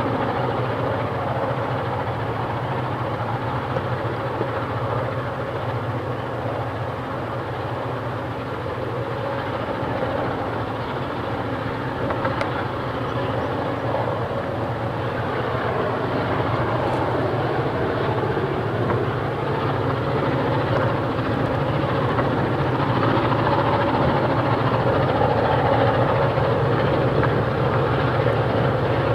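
EMD diesel-electric locomotives working hard under load, a steady heavy engine drone that slowly grows louder through the second half.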